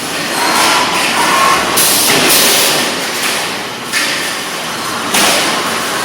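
Drywall profile roll-forming machine running, with sheet-metal strip being fed through its rollers. It makes a loud, continuous metallic noise that surges louder every second or two.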